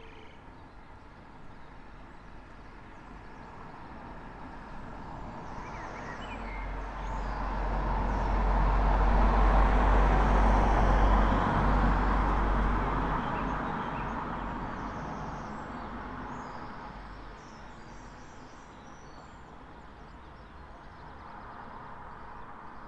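A single road vehicle passing along the street, its engine and tyre noise with a deep rumble building slowly, loudest about ten seconds in, then fading away over several seconds. Faint bird chirps sound behind it.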